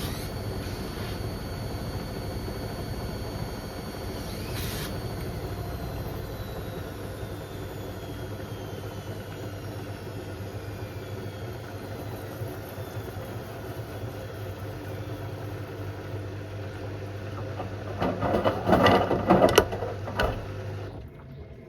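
Beko WM74135 washing machine's drum motor running down, its whine slowly falling in pitch over a steady hum. Near the end the drum gives a loud clattering for about two seconds, then the motor stops.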